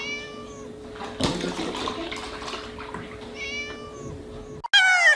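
A domestic cat meowing twice, a short call near the start and another about three and a half seconds in, over a steady hum. A brief rush of noise comes about a second in. Near the end a cut brings in louder, high-pitched animal cries.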